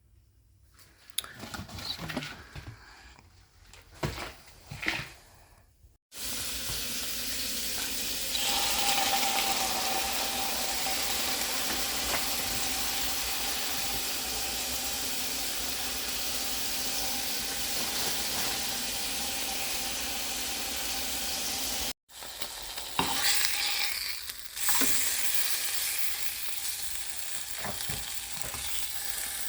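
Food sizzling in a hot frying pan: a few quiet knocks of handling at first, then a steady sizzle from about six seconds in. It breaks off briefly about 22 seconds in and resumes with a few clatters of a utensil against the pan.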